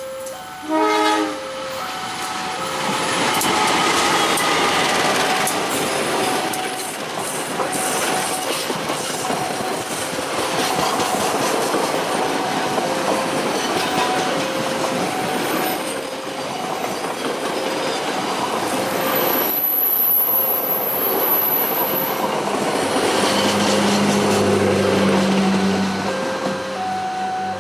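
A train passes over a level crossing, its wheels clattering on the rails, after a short horn blast about a second in. The crossing's warning bell dings in an alternating two-tone pattern throughout, and a brief high wheel squeal comes about two-thirds of the way through.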